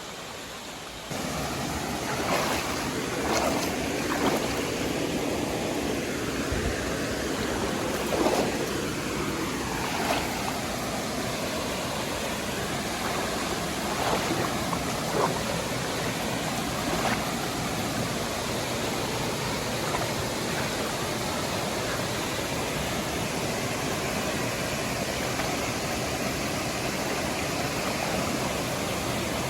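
Steady rush of water from a creek and waterfall in full flow, getting suddenly louder about a second in, with a scattering of sharp knocks through the first half.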